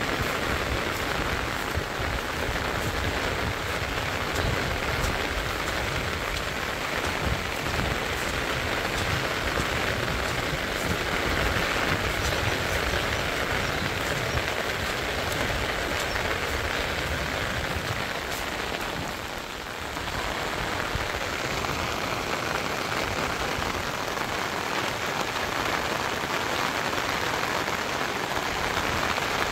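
Heavy rain falling steadily, an even hiss that dips briefly about two-thirds of the way through.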